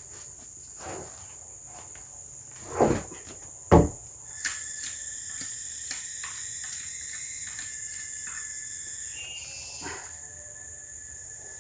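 Steady high-pitched drone of forest insects, with two dull knocks about three and four seconds in.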